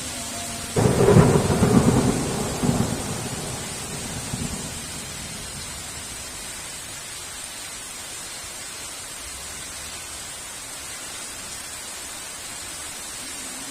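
Thunder cracks suddenly just under a second in and rumbles away over the next few seconds, over steady heavy rain that continues evenly afterwards.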